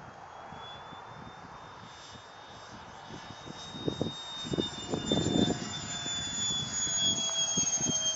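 Electric ducted fan of a Parkzone Habu foam jet whining high overhead; its pitch rises slightly, then glides down near the end. Gusts of wind buffet the microphone in low rumbles through the second half, louder than the fan.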